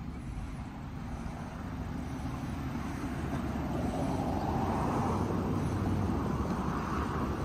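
2014 BMW 428i's turbocharged four-cylinder engine idling steadily, under a broad rushing noise that grows louder from about halfway through.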